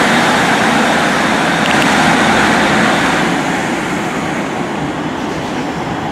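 Train running past close by, a loud rushing noise that eases off gradually over the second half.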